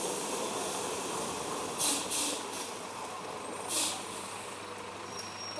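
Loaded Scania truck running steadily, with short sharp air hisses from its air system twice, about two seconds in and again near four seconds.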